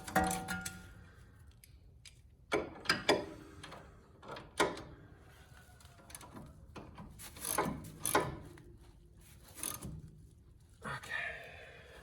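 Half-inch ratchet and socket tightening a bolt: irregular metallic clicks and clunks, about ten of them, with pauses between.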